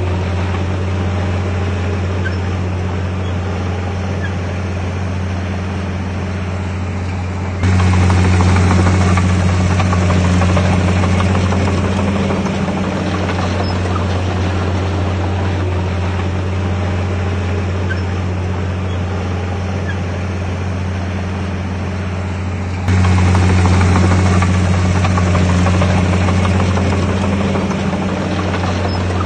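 Bulldozer diesel engine running steadily, a deep hum that turns suddenly louder twice, about eight seconds in and again about twenty-three seconds in, easing back over the next few seconds each time.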